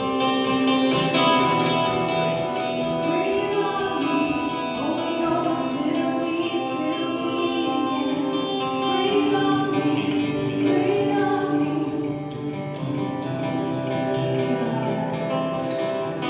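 Gospel worship music: guitar with held chords and singing over it.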